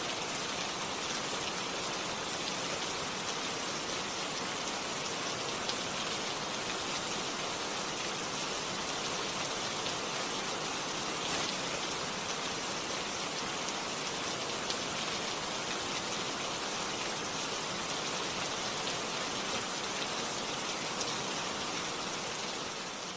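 Steady rain: an even hiss with faint scattered drop ticks, fading out at the very end.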